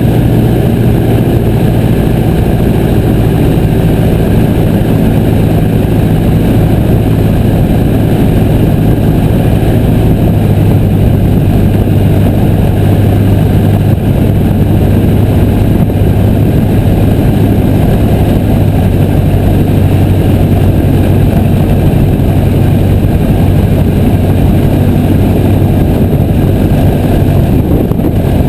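Piper J3 Cub's engine and propeller running at a steady drone, heard loud from on board the aircraft.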